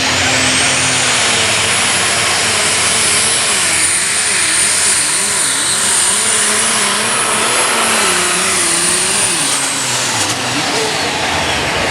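Diesel super stock pulling tractor under full load on a pull. A high turbocharger whine spools up at the start, holds at a shrill pitch, and winds down near the end as the run finishes, over a loud engine note that wavers up and down.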